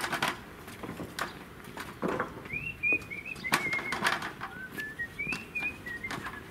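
A bird chirping a run of short, high notes through the second half. Scattered knocks and clatter from wooden beams and an aluminium stepladder being handled.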